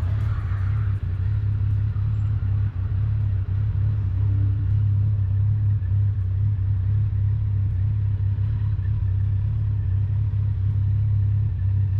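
Kawasaki motorcycle running at a steady cruise on the road, a constant low drone with no change in pace.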